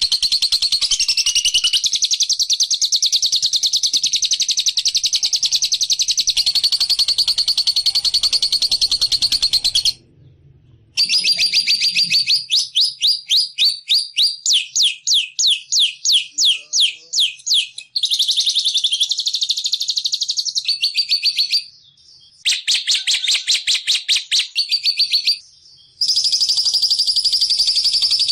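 Recorded songbird chattering: rapid, high-pitched trills in long bursts broken by a few abrupt short gaps, with a stretch in the middle of separate quick notes at about four a second. It is luring birdsong, played to set a silent bird calling.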